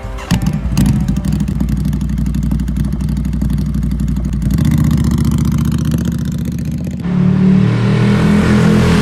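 Ducati Scrambler's air-cooled L-twin engine starts about a third of a second in and runs at idle with a steady pulsing beat. About seven seconds in it gives way abruptly to a louder engine sound with a higher note.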